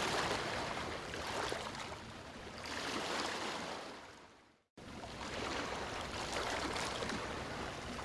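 Ocean surf: waves washing in, the noise swelling and ebbing. A little past halfway it fades out to a brief silence, then cuts straight back in.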